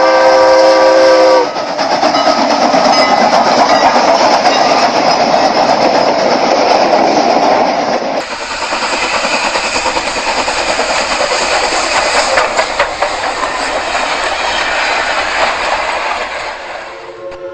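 A train horn sounds a chord of several notes and cuts off about a second and a half in. Then comes the loud, steady rushing noise of a train running past, with an abrupt change in the sound about eight seconds in. The horn chord sounds again near the end.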